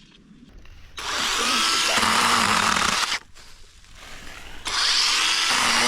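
Chainsaw cutting brush in two bursts at full throttle: the first from about a second in, lasting about two seconds, the second starting near the end after a short drop to idle. The owner calls the chain bad.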